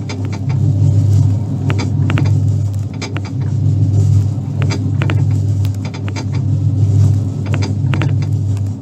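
Little Duke coin-operated tug boat kiddie ride running: a steady low motor hum that swells and fades every second or two as the boat rocks, with scattered clicks and knocks from the drive mechanism.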